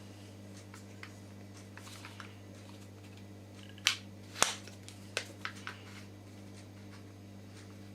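Scattered sharp clicks and taps, the loudest two close together about four seconds in and a few lighter ones just after, over a steady low electrical hum.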